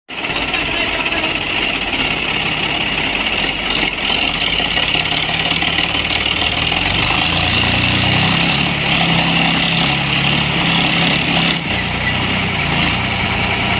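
Diesel tractor engines running steadily, with a deeper engine tone rising in level and pitch about seven seconds in as the engines are revved.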